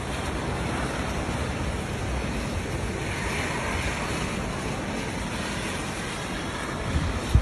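Snowstorm wind blowing hard and steadily, with low rumbling wind noise on the microphone. A sharp buffet hits the microphone near the end.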